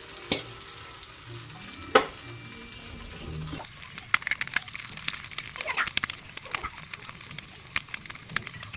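Two sharp knocks, then from about halfway on a pan of food frying with dense crackling and sizzling.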